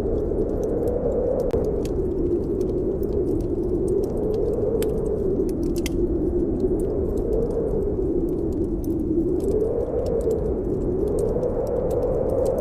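Snowstorm wind howling, its pitch slowly swelling and falling, with a wood fire crackling and popping in scattered sharp clicks.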